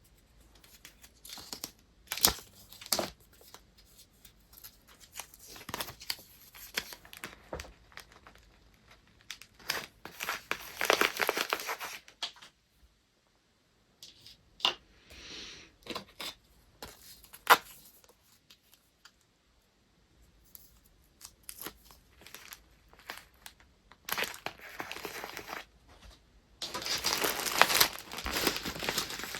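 Paper and wrapping materials being handled close up: irregular crinkling and rustling with short clicks, and two longer stretches of tearing and crumpling, one in the middle and a louder one near the end.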